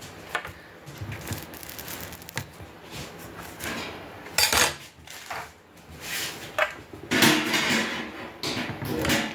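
Metal grill parts clanking and knocking as they are handled and fitted together, with louder clatters about halfway through and near the end.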